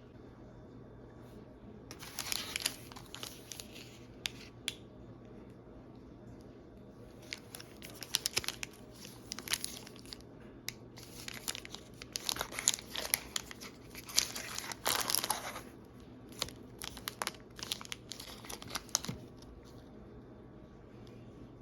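A snack wrapper being crinkled and torn open by hand, in four spells of rustling with sharp crackles between quiet pauses.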